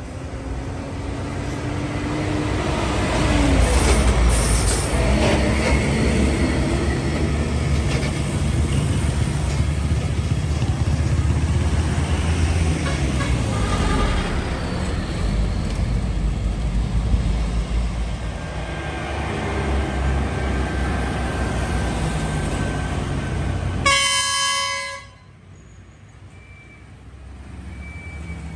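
Heavy diesel truck engine labouring past, a deep rumble that swells and shifts in pitch, then a loud air-horn blast of about a second near the end, after which the sound drops away abruptly.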